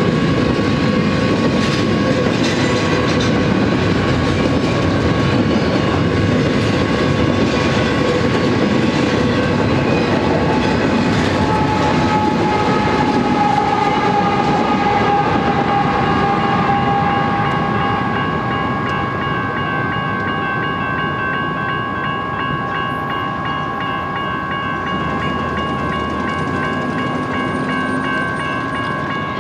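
Double-stack container freight train rolling through a grade crossing, the wheels clacking over the rail joints. The rear BNSF GE locomotive passes about halfway through, and after it the train noise drops away while the crossing bell keeps ringing steadily.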